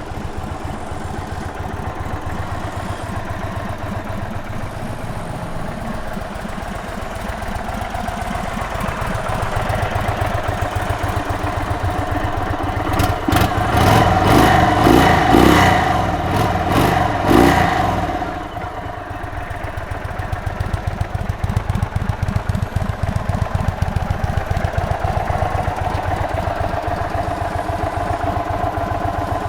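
2023 Indian Sport Chief's V-twin engine idling with a steady low beat. About halfway through, several quick throttle blips rev it up, then it settles back to idle.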